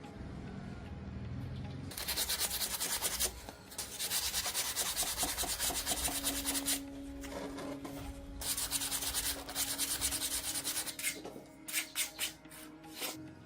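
Abrasive sanding of a part in long scratchy passes, broken by pauses, then a few short quick strokes near the end.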